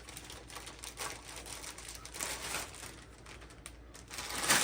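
Light clicks and small knocks of new steering parts being handled, with a louder rustle of packaging near the end.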